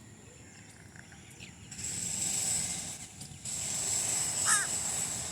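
A steady, high-pitched insect trill switches on about two seconds in, breaks off briefly and then continues. A few short bird chirps come through over it, the clearest about four and a half seconds in.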